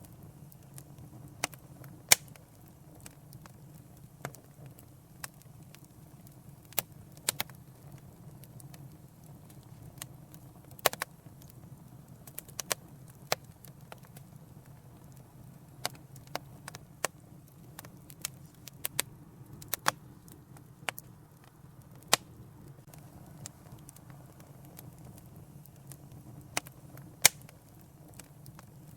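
Wood fire crackling in a fireplace: irregular sharp pops and snaps, a few every few seconds, over a low steady rush of burning.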